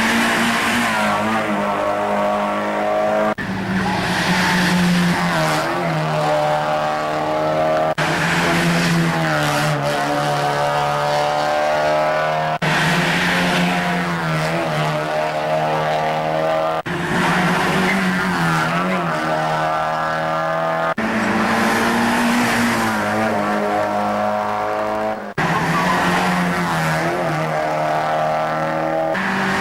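Mazda MX-5 race cars' four-cylinder engines running hard at high, fairly steady revs. The sound is broken by abrupt cuts every four seconds or so, where one shot jumps to the next.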